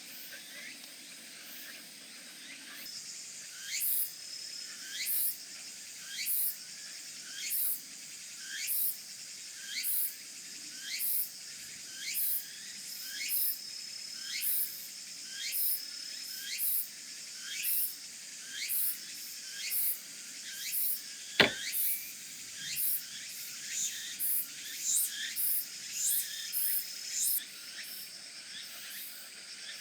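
Insects calling: a high-pitched call repeats in even pulses, about one every 1.2 seconds, over a steady high insect trill. A single sharp click stands out about two-thirds of the way through.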